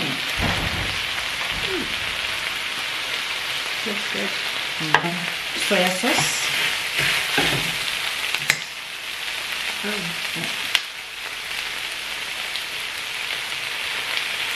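Chicken and vegetable stir-fry sizzling steadily in an enamelled pan, stirred with a wooden spoon, with a few sharp clicks.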